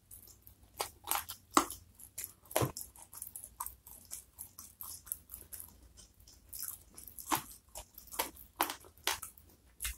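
Close-miked mouth sounds of eating smashed fried chicken (ayam penyet) with sambal by hand: irregular crunches, bites and wet chewing smacks, some louder and sharper than others.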